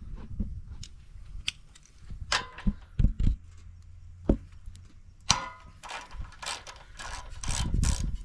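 Metal hand tools clinking and knocking on a small-engine carburetor, then a socket ratchet clicking in quick runs over the last few seconds as the float-bowl nut is worked loose to drain the bowl.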